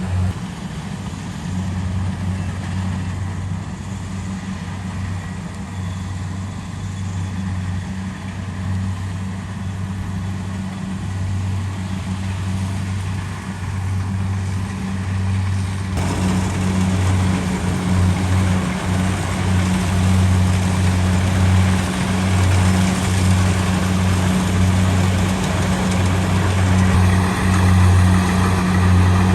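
Kubota DC70 Pro combine harvester's diesel engine running steadily with a deep hum. About halfway through it gets suddenly fuller and a little louder, with more machine rush on top.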